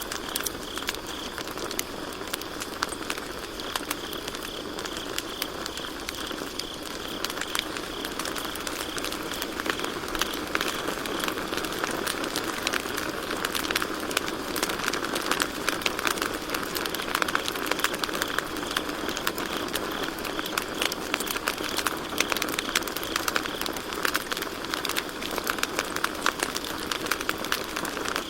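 Wood campfire crackling and popping continuously over a low steady hiss of the burning fire, with crickets chirping in a thin high band that fades after about ten seconds.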